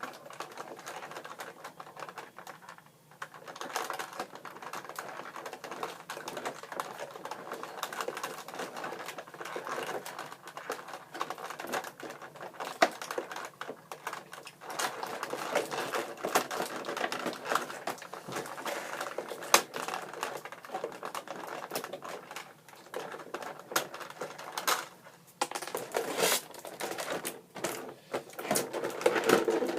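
Hands working wire twist ties loose from a toy tractor's plastic packaging: an irregular run of small clicks and crinkling plastic, with brief pauses.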